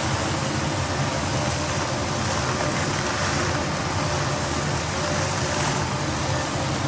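iVision IV5 industrial wood-chip vacuum running steadily: an even rushing of air with a faint motor hum underneath.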